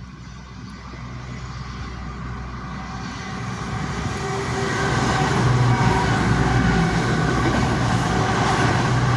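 Class 221 Voyager diesel-electric multiple unit approaching fast, its engines and wheels on the rails growing steadily louder over about five seconds, then holding at full volume as it passes close by.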